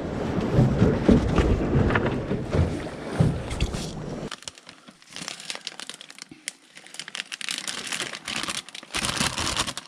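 Wind buffeting and boat noise with irregular knocks of gear being handled. From about four seconds in, after an abrupt change, it gives way to a quieter crinkling rustle.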